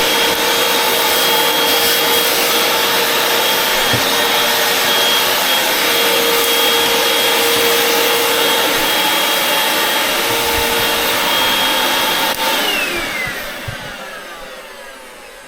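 Vacuum cleaner running steadily with its motor whine, then switched off with a click about twelve seconds in, the motor winding down in a falling whine.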